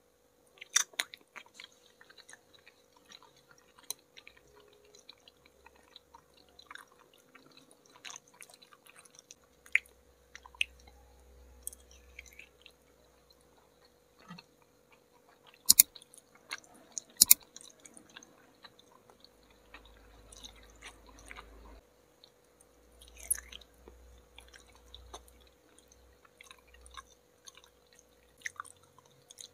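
Close-up sounds of a person biting and chewing soft milk pudding, with many small mouth noises and a few sharp clicks, the loudest about 16 and 17 seconds in, over a faint steady hum.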